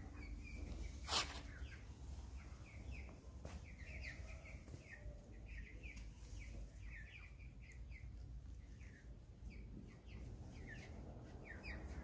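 Birds chirping in a long series of short, high calls, a few each second, with one sharp knock about a second in.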